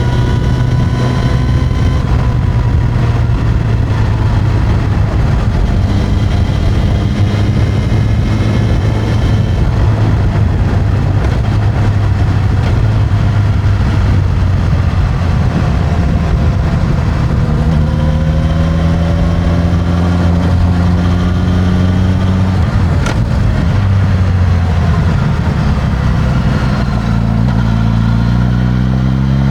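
Suzuki GSX-S1000's inline-four on its stock exhaust, running under way. The engine note holds fairly steady, then dips and rises in pitch about two-thirds of the way through, and climbs steeply near the end as the bike accelerates.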